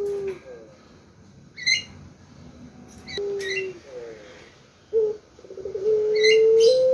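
Puter pelung dove cooing: a short low coo about three seconds in and a long, drawn-out held coo over the last two seconds, with brief high chirps in between.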